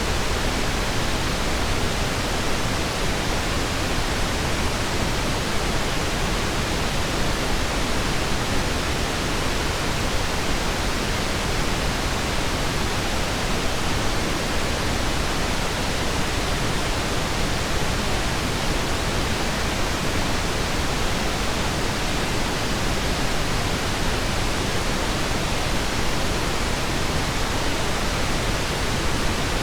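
Steady pink noise, an even hiss without change or events.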